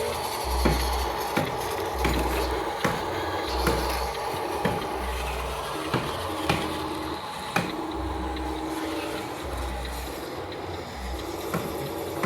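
Small electric motors and gears of RC construction models running, with repeated short low hums and sharp plastic clicks and knocks about once a second.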